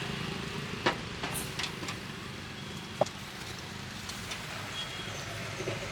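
Steady street background noise with a low hum, broken by a few sharp clicks, the clearest about one second and three seconds in.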